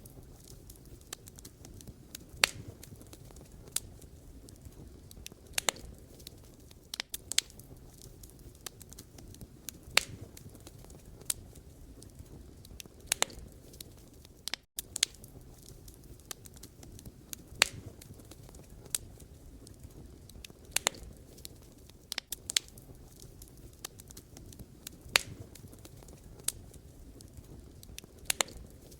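Wood fire burning: a steady low rumble and hiss with sharp, irregular crackles and pops from the burning logs, a few every couple of seconds.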